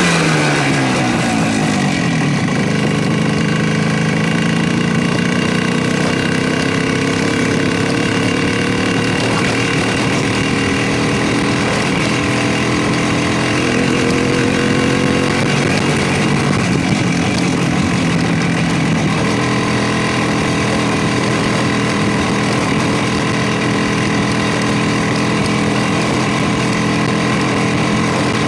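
Motorcycle engine running under way. Its pitch falls over the first couple of seconds, rises and falls briefly about halfway through, and otherwise holds steady.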